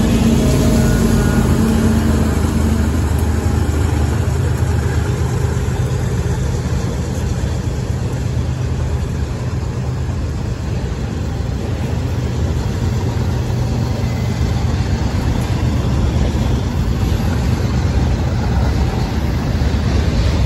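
Freight train rolling past at speed: a steady rumble of steel wheels on rail from a string of autorack cars. The drone of the diesel locomotives' engines fades out in the first few seconds.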